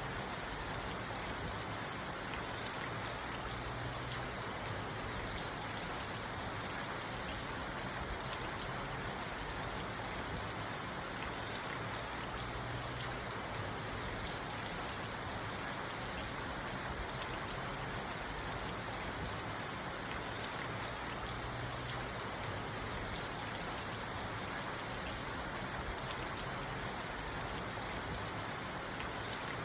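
Steady rain falling on a parked car's roof and windows, heard from inside the car as an even patter.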